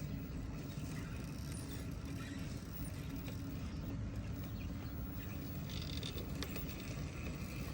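RC rock crawler's electric motor and geared drivetrain running steadily, with one sharp click about six seconds in.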